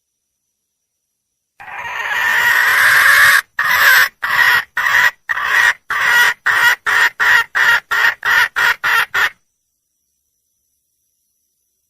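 Red junglefowl hen (wild hen) calling for a male. A long call swells in loudness, then about fourteen short calls come faster and faster until they stop abruptly.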